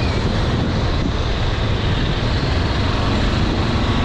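A vehicle driving along a street at speed, giving a steady rumble with wind and road noise.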